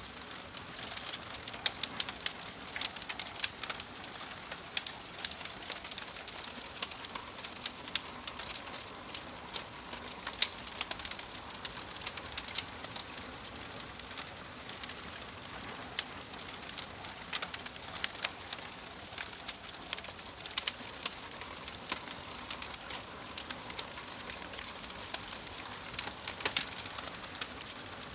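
Wood fire burning in a fireplace: a steady hiss with irregular sharp crackles and pops throughout. A faint held tone runs through the middle.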